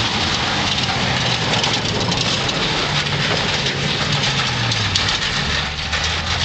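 1969 Dodge Adventure pickup's engine running hard. The revs fall about five seconds in and it settles to a lower, steady tone, all under a steady loud hiss.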